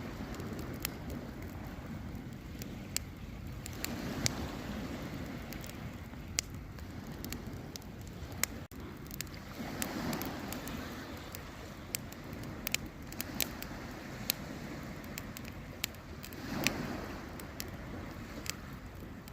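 Wood campfire crackling, with irregular sharp pops, over a steady background rush that swells three times.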